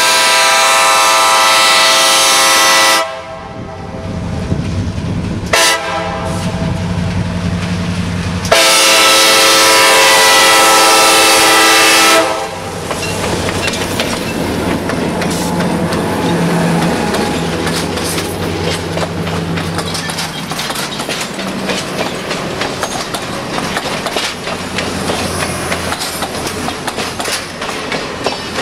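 Diesel passenger train passing: the locomotive's multi-chime air horn sounds a long blast, a short one and another long one, the pattern for a grade crossing. Then the engine's hum and the wheels clicking over rail joints carry on as the cars roll by.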